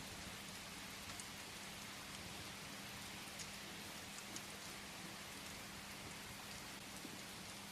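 Steady rain falling, with a few faint sharp ticks scattered through it and a faint low steady hum underneath.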